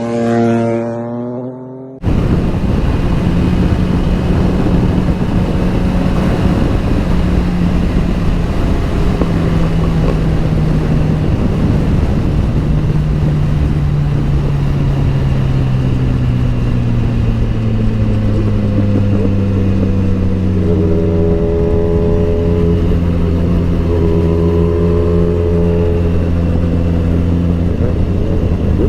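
Motorcycle engine heard on board while riding, under heavy wind noise. The engine pitch steps between gears and falls slowly for several seconds, then steadies. It starts abruptly about two seconds in, after a short pitched sound.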